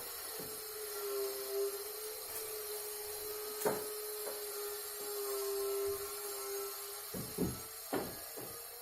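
A steady hum at one pitch, with a sharp knock about four seconds in and a few more knocks near the end.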